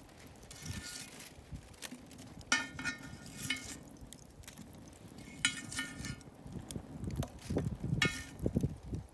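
Metal cookware clinking and rattling as it is handled: a series of short ringing clinks at irregular intervals. Heavier bumps and knocks come in the last couple of seconds.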